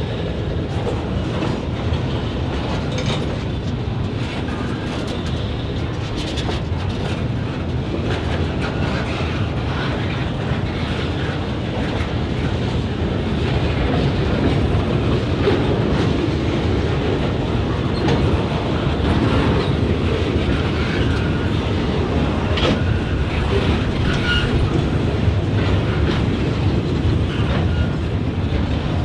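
Freight train rolling steadily, its wheels clicking over rail joints, a little louder in the second half.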